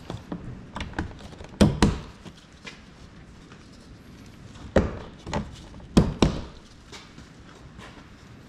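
Workshop hand tools knocking and clanking against car parts: a run of sharp knocks, the loudest coming in two quick pairs about a second and a half in and again about six seconds in, with single knocks and light taps between.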